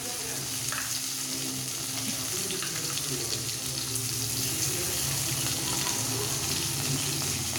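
Capsicum, onion, garlic and ginger paste sizzling steadily in hot oil in a pan.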